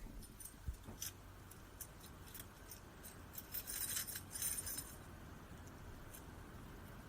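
A bunch of keys jangling: a few light separate clinks, then a busier jingle from about three seconds in to nearly five seconds.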